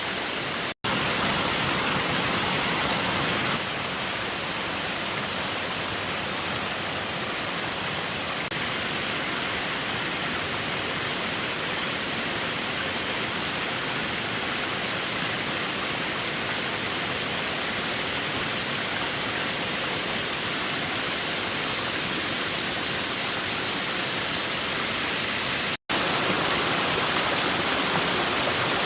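Steady rushing of water, an even hiss with no distinct events, cut off abruptly twice by brief silent gaps, about a second in and near the end.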